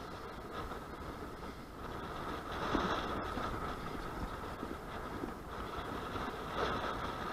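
Strong gusty wind rushing across the microphone, swelling and easing in gusts.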